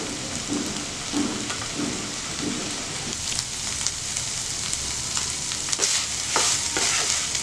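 Minced chicken and cauliflower sizzling steadily in a nonstick pan as the moisture cooks off, with a wooden spatula scraping and stirring through it several times in the second half.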